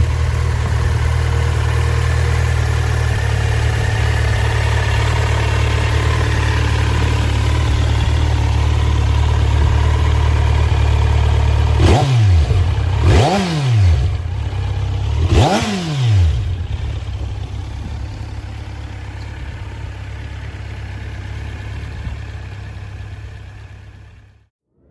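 Kawasaki Z900's inline-four engine idling steadily. About halfway through it is revved twice, the pitch climbing and falling back each time. After the second rev the engine note is gone, and what sound remains fades away near the end.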